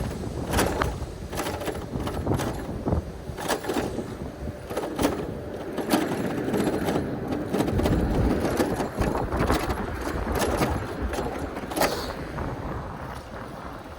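Ride noise from a bicycle: irregular sharp clicks and knocks as the bike and camera rattle over the road, over a low rumble of wind and traffic.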